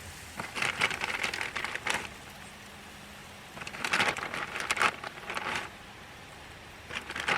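Deer steaks sizzling on a grill that has not quite heated up, the sizzle coming in three crackling bursts a second or two long.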